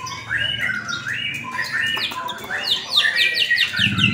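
White-rumped shama (murai batu) in full song: loud, rapid phrases of sweeping whistled notes, with a fast run of short, high, downward-sweeping notes near the end.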